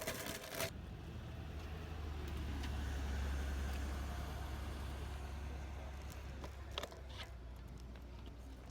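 A motor vehicle passing, its low rumble and road noise swelling to a peak about three seconds in and then fading. A short burst of clatter comes at the very start.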